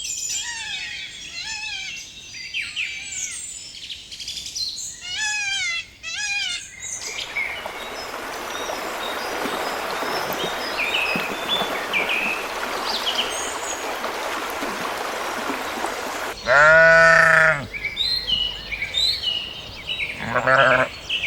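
Farm animal bleating loudly, one long bleat about two-thirds of the way in and two more near the end. Before that comes a run of short, high, repeated bird-like calls, then a stretch of steady outdoor hiss with scattered chirps.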